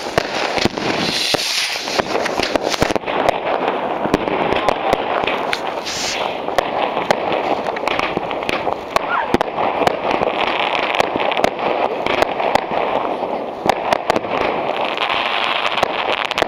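Fireworks rockets going up and bursting in the sky: many sharp bangs and crackles, some coming in quick succession.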